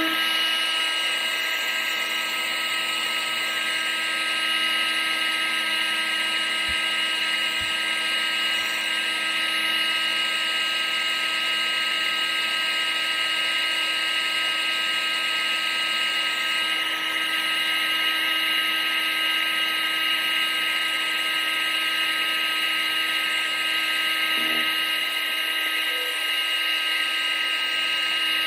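Vacuum cleaner motor running continuously: a steady high whine over a rushing of air, with no change in speed.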